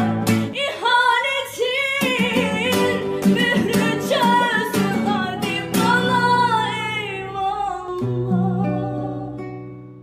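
A woman singing a melodic, ornamented song over plucked guitar accompaniment, fading out near the end.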